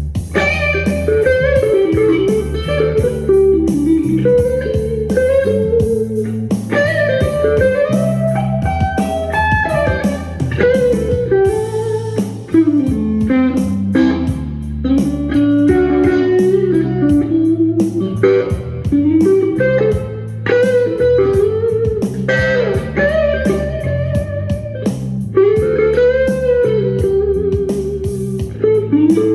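Electric guitar playing a bluesy lead line full of string bends over a steady bass line, with a regular beat ticking underneath.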